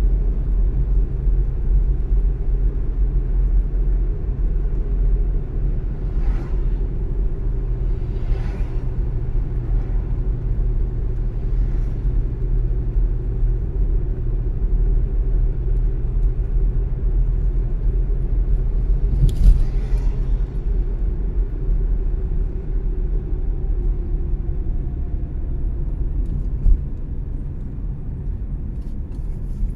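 Car driving along at road speed: a steady low rumble of road and engine noise, with a few brief hissing swishes, the loudest about two-thirds of the way through.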